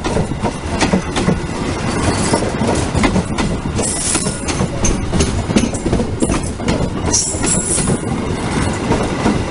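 A long-distance passenger train passing close by: its wheels clatter over the rail joints, with brief high-pitched wheel squeals about four seconds in and again near the end.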